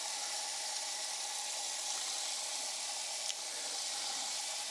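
Water spraying in a steady hiss while plants are being watered.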